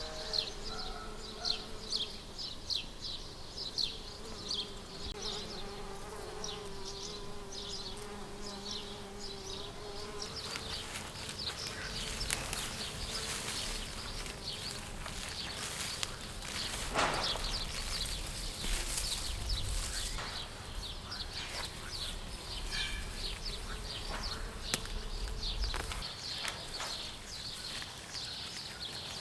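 A flying insect buzzing close by, a steady hum that wavers in pitch and fades out about ten seconds in, over quick high chirps that keep repeating throughout.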